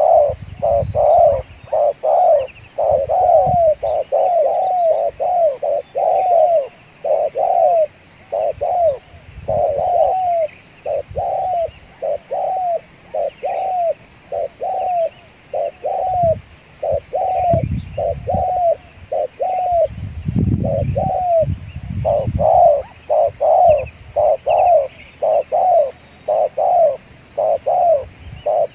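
Spotted dove cooing without pause: a long run of arched coo notes, one after another about one to two a second, with a steady high buzz underneath.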